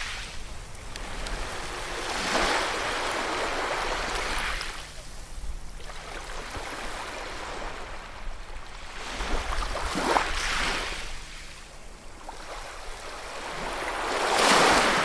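Ocean waves breaking and washing on a shore, a hiss of surf that swells and ebbs, with one wave surging a few seconds in, another about ten seconds in and the loudest near the end.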